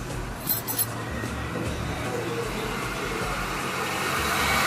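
1995 Honda Odyssey's four-cylinder engine running steadily just after starting, growing louder near the end. It runs again now that a replacement ECU is sending pulse to the fuel injectors, curing the no-start.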